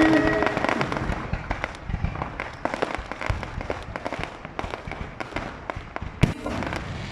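Fireworks display: a dense run of crackling pops and small bangs, with one louder bang about six seconds in.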